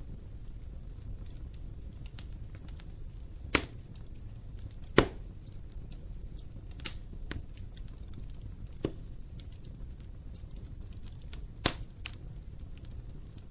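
Wood fire burning in a fireplace: a steady low rumble of flames with light crackling, broken by five sharp pops from the burning logs, the loudest about five seconds in.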